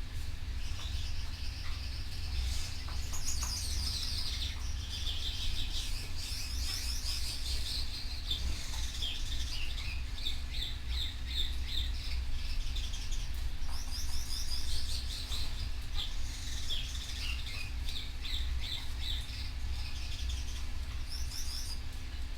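Canary singing: rapid trills and runs of quick repeated chirps, starting a couple of seconds in, over a steady low hum.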